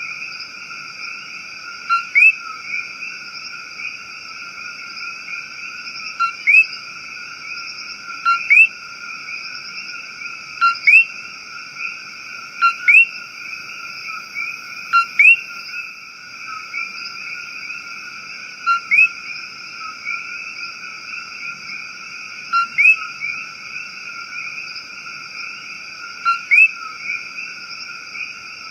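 Rainforest chorus of frogs and insects: a steady, shrill, many-toned drone, with a loud frog call about every two seconds, each a quick pair of notes that drop sharply in pitch.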